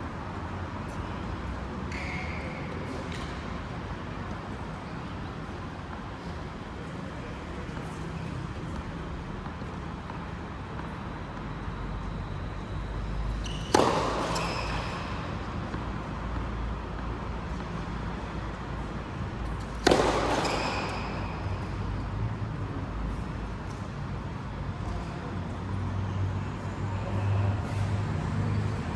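Two sharp impacts about six seconds apart, each with a short ringing tail, over a steady low background hum; a few faint knocks come near the start.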